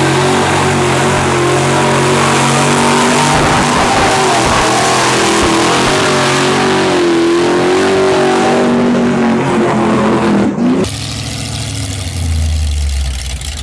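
Old-school Chevy mega mud truck's engine revving hard, its pitch rising and falling as it pushes through deep mud. The loud revving cuts off suddenly about eleven seconds in, leaving a lower rumble.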